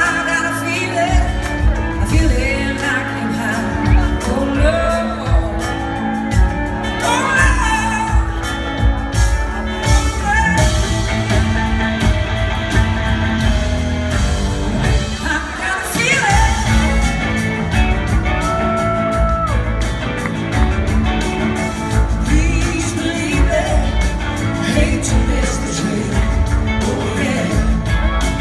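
Live rock band playing a song with lead vocals over drums, bass and guitars, heard as an amplified concert mix in a large hall.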